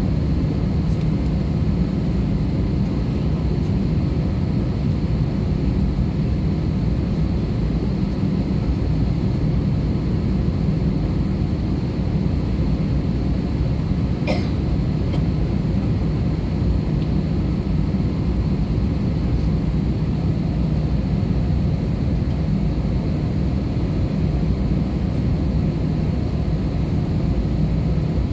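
Steady drone inside the cabin of an Airbus A320-214, with its engine and airflow noise heard from a forward window seat and a faint high whine over it. A single brief click sounds about halfway through.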